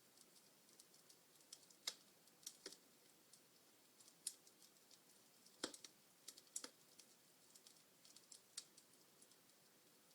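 Wood fire crackling in a fireplace: irregular sharp pops and snaps over a faint hiss, the loudest pops about two, five and a half and six and a half seconds in.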